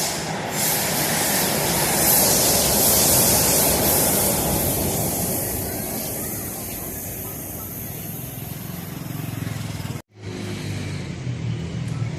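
Electric metro train running, a steady rushing noise that swells and then fades away. About ten seconds in it cuts off abruptly to a lower, steadier hum.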